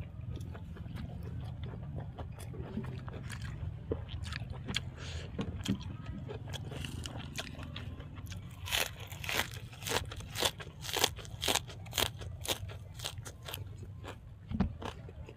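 Close-miked chewing of crunchy food, with a run of crisp crunches about two a second in the second half.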